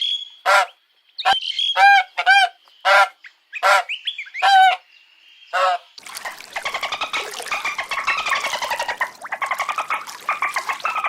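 Animal calls: about nine short, separate pitched calls in the first half, then from about halfway a continuous, rapidly pulsing call.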